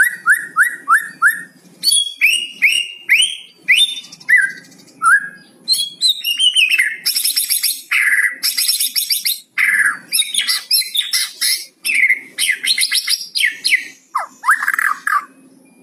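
White-rumped shama (murai batu) singing a varied song. It opens with a fast series of short falling whistled notes, about four a second, and turns to harsh, crackling rattles (the 'kretekan') in the middle, mixed with loud sweeping whistles.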